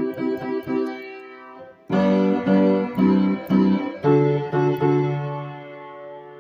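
Instrumental keyboard music, electric-piano-like: quickly repeated chords, a change of chord about two seconds in, then a held chord over a low bass note that slowly fades.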